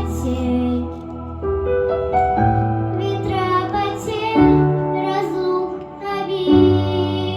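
A young solo voice singing a slow song in long held notes over an instrumental accompaniment with sustained bass notes.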